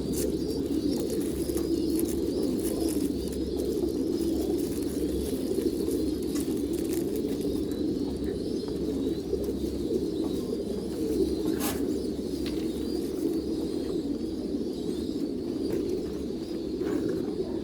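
Many domestic pigeons cooing at once, a continuous low overlapping chorus, with an occasional sharp click.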